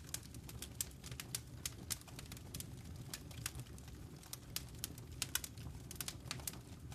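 Wood fire crackling in a fireplace: many sharp, irregular pops and snaps over a low steady rumble of the flames.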